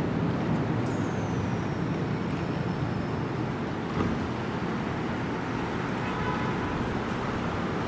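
Keisei Main Line electric train running through the station: a steady low rumble, with a thin high whine that glides down in pitch about a second in and fades out a couple of seconds later.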